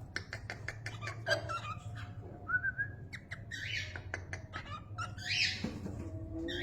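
Cockatiel beatboxing: runs of sharp mouth clicks mixed with short whistled notes and a few raspy squawks.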